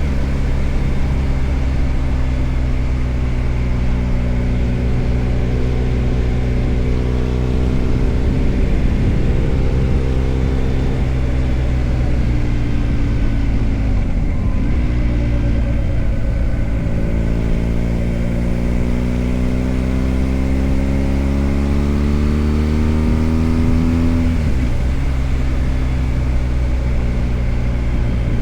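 BMW R 1250 GS Adventure's boxer twin engine running under way: steady at first, easing off around the middle, then rising in pitch as the bike accelerates, until a gear change drops the revs near the end.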